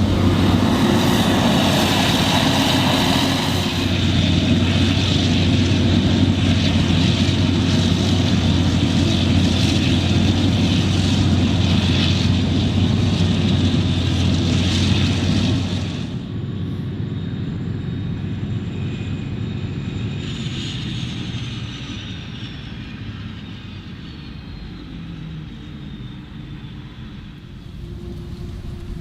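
Claas Jaguar 980 forage harvester's V12 engine and chopping drum running loud and steady under load while chopping maize. About sixteen seconds in the sound drops to a quieter level, and a thin high whine then slowly falls in pitch.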